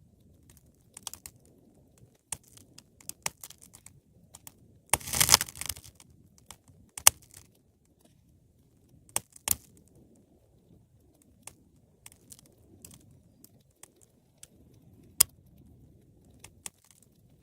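Wood fire crackling in a fireplace, with irregular sharp pops over a faint low rumble of burning and a brief burst of dense crackling about five seconds in.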